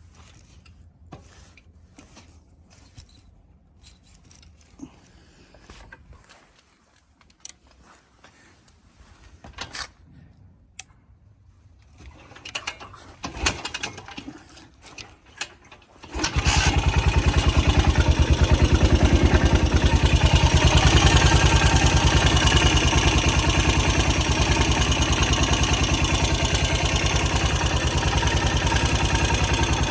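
Scattered clicks and knocks, then, about sixteen seconds in, a Yamaha SR400's single-cylinder engine, fitted with an FCR39 carburettor and a 500 crank, fires up and settles into a steady, evenly pulsing idle.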